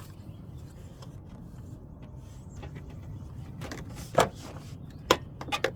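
Plastic air filter box being handled and pressed into place: one sharp click, then a quick run of clicks and knocks near the end, over a steady low hum. One of its mounting tabs has just broken off.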